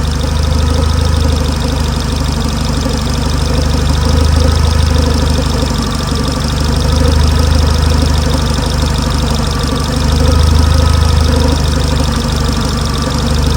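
Renault Megane R26 2.0 turbo four-cylinder engine idling steadily, its note swelling and easing gently every few seconds. It is running to bleed air out of the freshly filled cooling system.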